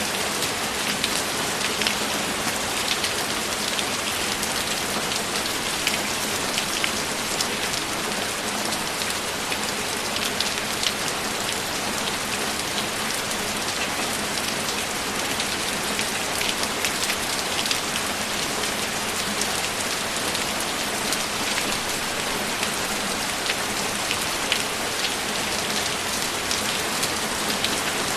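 Steady heavy rain, an even rushing hiss with many separate drops ticking through it.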